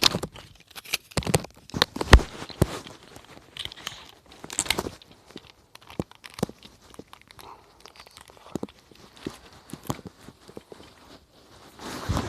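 Irregular rustling and crinkling, broken by scattered sharp clicks and knocks: the noise of things being handled and shuffled about.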